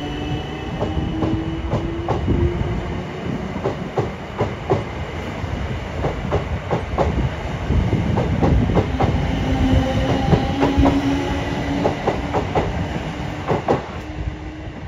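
Class 455 electric multiple unit moving through the station: wheels clattering over rail joints and points in irregular clicks, with a faint electric motor whine that rises in pitch over the first few seconds. The sound drops off near the end.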